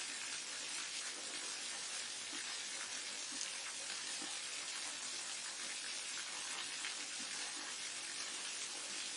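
Forest waterfall on a mountain stream: water falling and rushing in a steady, even hiss, strongest in the higher pitches.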